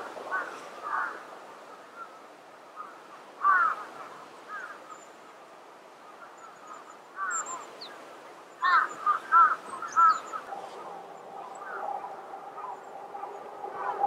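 Birds calling: bursts of short calls, the loudest cluster about two-thirds of the way through, with faint high chirps. A steady low hum sets in near the end.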